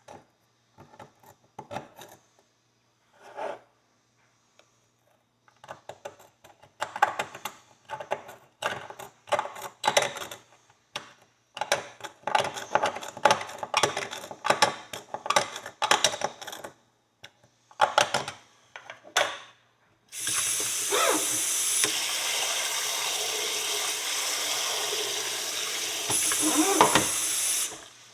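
A knife tip scraping packed dirt out of the nail groove of an old horseshoe in quick, repeated strokes. Later a water tap runs steadily for about eight seconds and then shuts off.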